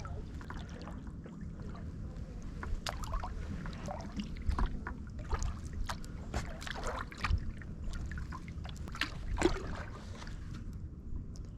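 Kayak paddling: paddle blades dipping into the water, with a scatter of small splashes and drips.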